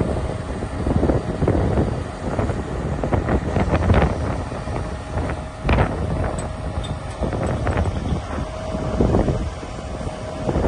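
A heavy truck's engine running low and steady, buffeted by gusts of wind on the microphone, with a faint steady whine that comes and goes.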